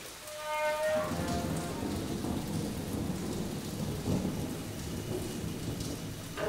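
Heavy rain falling steadily with low rolling thunder. A short pitched tone sounds and fades away within the first second.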